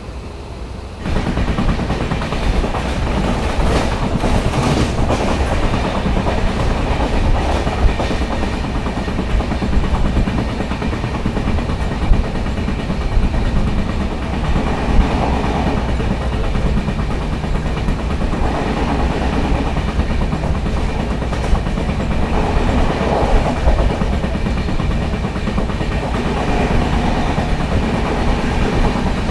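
Indian Railways LHB sleeper coach running at speed, heard from its open doorway: a steady rumble and clatter of wheels on rails with clickety-clack and scattered sharp knocks. It jumps suddenly louder about a second in.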